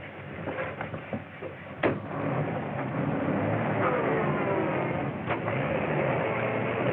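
A sharp bang about two seconds in, then a car engine running loudly as the car pulls away, its pitch rising. The sound drops off suddenly at the very end.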